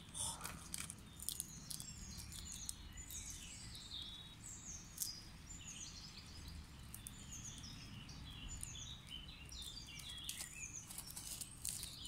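Small birds chirping and singing, with many short falling notes repeated throughout, over a low steady background rumble, with a few faint clicks.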